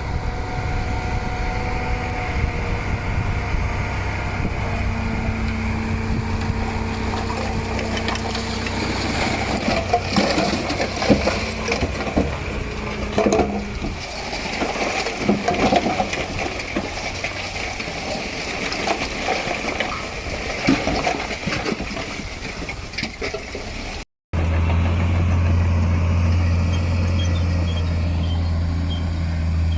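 Heavy diesel earthmoving machinery running steadily, with a cluster of sharp knocks and clanks in the middle. After a cut near the end, a deep, steady engine hum is heard.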